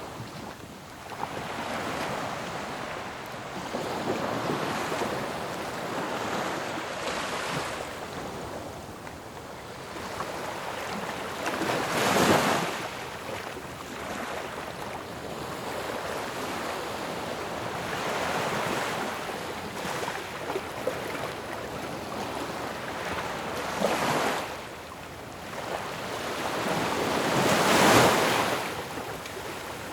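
Ocean waves breaking on a shore in a continuous wash of surf, with louder crashes swelling and falling back at about 12, 24 and 28 seconds in.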